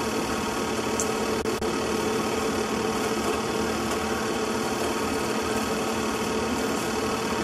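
A steady, unchanging mechanical hum at a fixed pitch, over a constant hiss.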